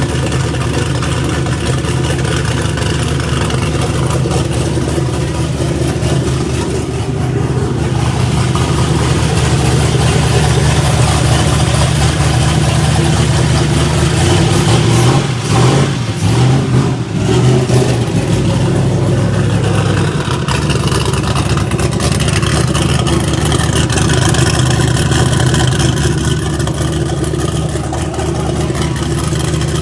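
Race car's freshly built 13:1-compression 5.3 iron-block V8 running on its first start-up, idling loudly, with a few throttle blips about halfway through.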